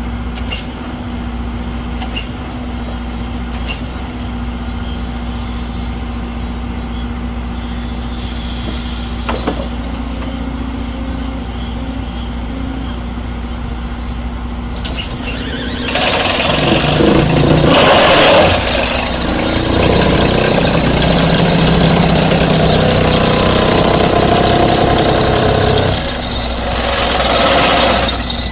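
Excavator engine running steadily with a hydraulic vibro pile driver attached. About halfway through, a much louder rattling, noisy machine sound with a steady high whine starts and runs for about ten seconds, dips briefly, then rises again near the end.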